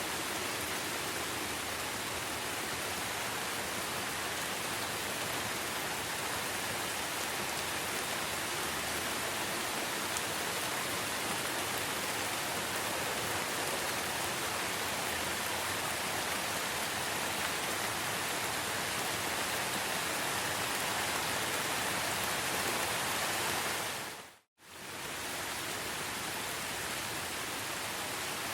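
Steady rain falling, an even, dense hiss. About three-quarters of the way through it fades out to silence for a moment and fades back in, like a loop point in the recording.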